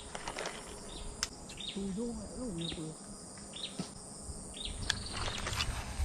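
Quiet riverside ambience in which a bird gives short high chirps about once a second, with faint insect noise underneath and a couple of soft clicks.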